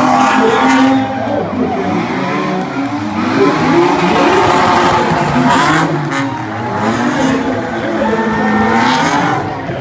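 Several drift cars' engines revving hard and rising and falling in pitch together during a tandem drift run, with tyre squeal.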